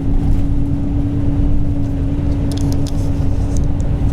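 Semi-truck cab noise while driving: a steady low engine and road rumble with a constant hum.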